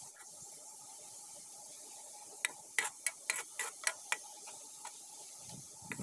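Sliced shallots frying in oil in a wok, a steady faint sizzle. About two and a half seconds in, a metal spatula stirring them clicks against the wok about eight times in quick succession.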